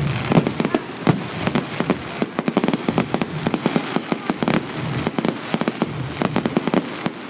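Fireworks display: a rapid, continuous run of bangs and crackling pops from exploding shells, thickest in the middle, over a low rumble.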